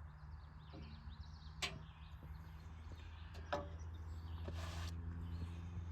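Hand-tool work on the crawler's fuel filter air bleed screw: two sharp metallic clicks about two seconds apart, then a short hiss, over a steady low engine hum and birdsong.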